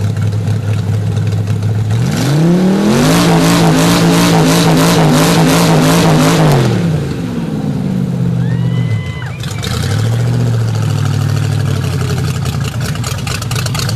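1931 Chevy truck's engine running on open headers: idling, then revved up about two seconds in and held at high revs for roughly four seconds before falling back to a loud, steady idle.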